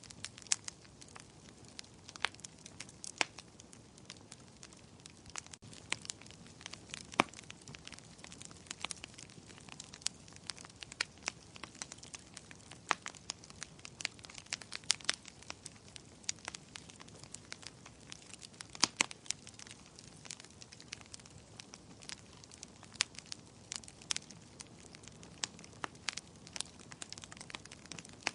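Wood fire burning in a fireplace, with irregular sharp crackles and pops over a low steady hiss.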